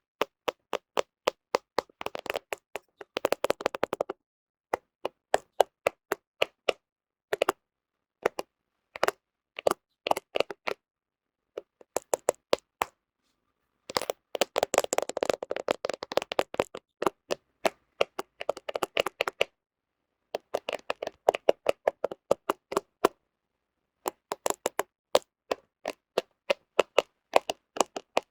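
Fingernails tapping and scratching on a camera close to the microphone: sharp clicks, some spaced out and some in quick flurries, with short completely silent pauses between groups.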